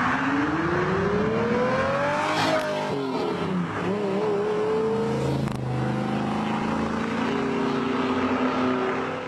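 A car's engine accelerating: its pitch climbs steadily, falls sharply about two and a half seconds in, then climbs again and holds fairly steady.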